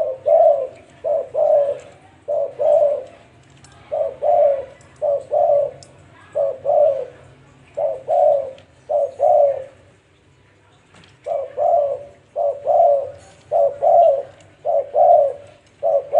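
Spotted dove (cu gáy) cooing over and over in short phrases of two or three low coos, with a brief pause about two-thirds of the way in. It is the territorial call of a decoy male, used to provoke wild males.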